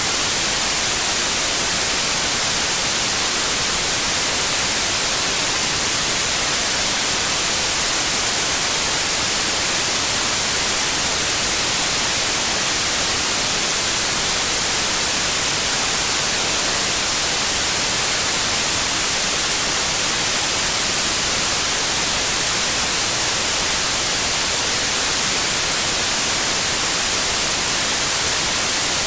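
Steady white noise: an even hiss, brightest in the treble, holding one level with no changes.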